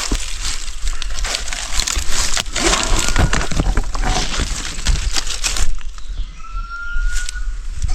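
Dense crackling and rustling of many small sharp cracks, like dry leaves or twigs being trodden or handled, easing off about six seconds in.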